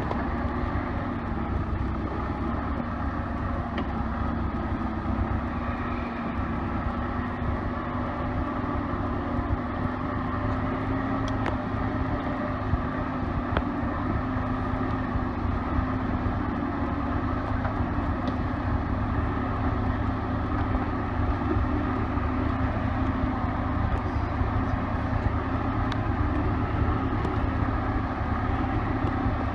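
CASE 580B backhoe's four-cylinder diesel engine running steadily at low revs, its pitch holding nearly constant.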